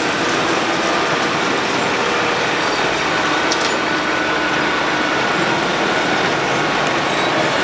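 Road planer (cold milling machine) running steadily and loudly: a dense machinery noise with a few steady engine tones, and a couple of sharp clicks about three and a half seconds in.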